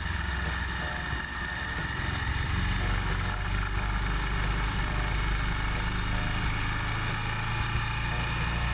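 Motorcycle engine running steadily at road speed.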